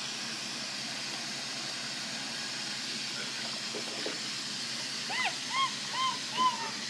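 Water running steadily into a bath. Near the end, a capuchin monkey gives four short, arched chirping calls in quick succession.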